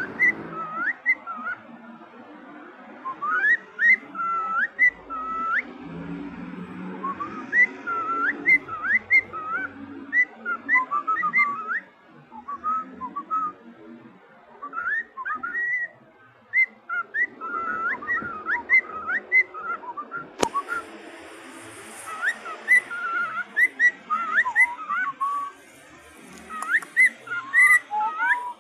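Cockatiels whistling in phrases of short notes that glide up and down, with brief pauses between phrases. There is a single sharp click about twenty seconds in.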